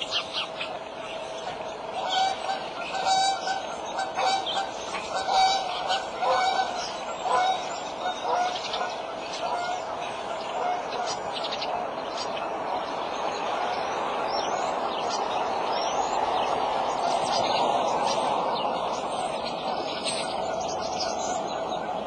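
Birds calling in a run of short, repeated notes during the first half, over a constant faint hum. From the middle on, a hiss swells and then eases off.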